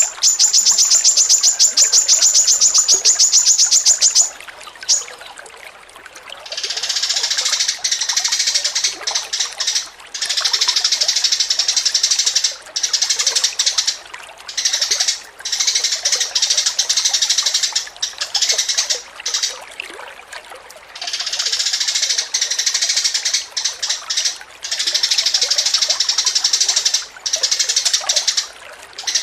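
Songbird singing a non-stop chattering song: a rapid, even trill of high notes for the first four seconds, then long runs of dense, high twittering broken by short pauses.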